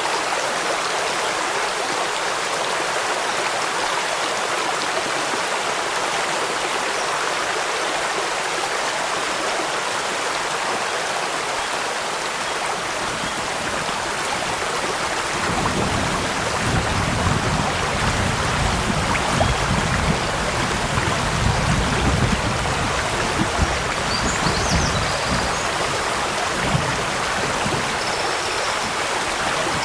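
Steady rushing of a forest stream and waterfall with rain falling. About halfway in, a low, uneven rumble joins it and comes and goes until near the end.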